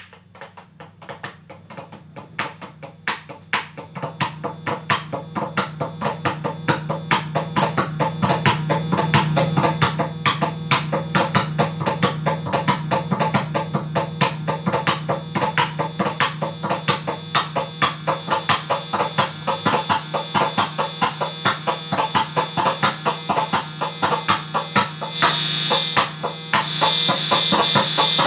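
Sharp printing calculator's key and printer mechanism, picked up by piezo contact sensors and run through a Big Muff-style fuzz circuit: a regular run of distorted clicks, about three to four a second, growing louder over the first several seconds above a steady low hum. Near the end a high, steady whine joins in.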